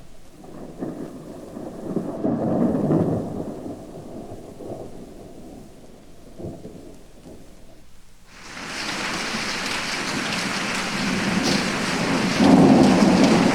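Thunderstorm sound effect: a rolling rumble of thunder, loudest two or three seconds in, then heavy rain starting suddenly about eight seconds in, with another peal of thunder rumbling over the rain near the end.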